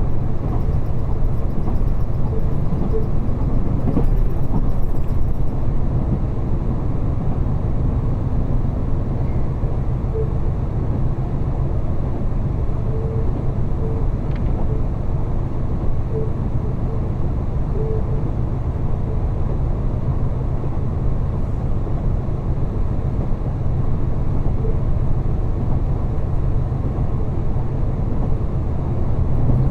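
Diesel railcar running, heard from inside the cabin: a steady low rumble of the engine and the wheels on the rails.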